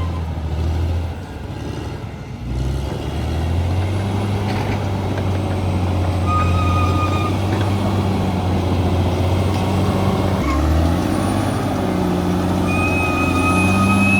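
Bulldozer's diesel engine running under load. It drops off about a second in and picks back up, with short high-pitched squeals now and then over it.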